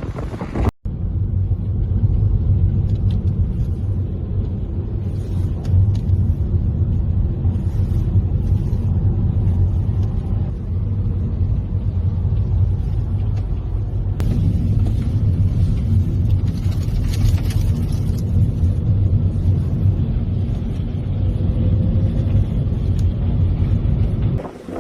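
A loud, steady low rumble with a faint hum in it, briefly dropping out about a second in and changing abruptly about fourteen seconds in.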